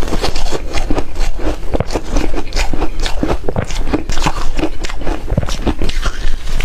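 A person biting and chewing refrozen, hard ice: loud, irregular crunching with many sharp cracks in quick succession.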